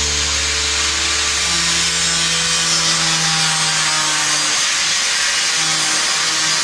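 A power tool cutting material: a steady, loud hiss with no stroke-by-stroke rhythm, over background music.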